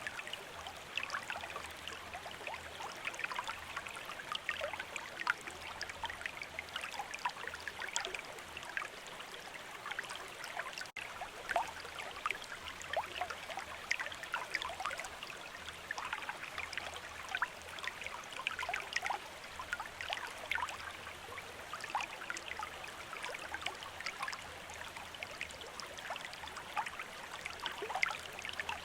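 Running water of a small river or stream, babbling and trickling steadily over stones, with a split-second break about eleven seconds in.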